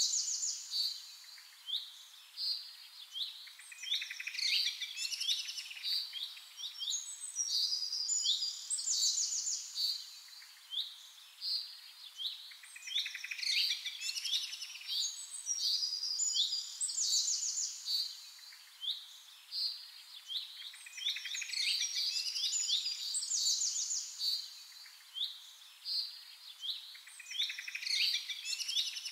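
Several small birds chirping: a steady run of short, high calls and quick trills, overlapping one another.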